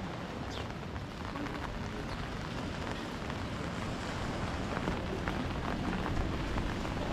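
Steady rain falling on wet paving, a continuous hiss with scattered small drop ticks.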